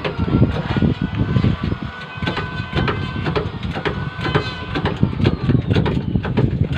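Repeated irregular metallic knocks and clanks with ringing tones that fade slowly, over a low rumble, from work to break a large truck tyre off its rim.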